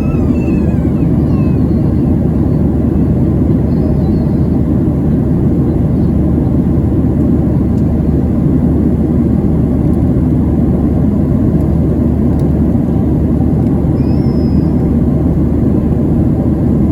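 Steady cabin noise of a Boeing 737-700 at cruise: a dense, unchanging low rumble of airflow and its CFM56-7B engines.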